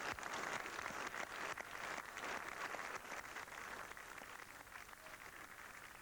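Audience applauding: a dense patter of many hands clapping, loudest over the first couple of seconds and then gradually dying away.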